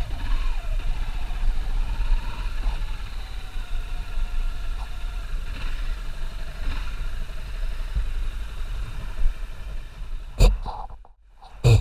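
Honda CBR250R single-cylinder motorcycle engine running steadily as the bike moves off, a low rumble with road noise. Near the end come two sharp knocks about a second apart, with a brief drop in level between them.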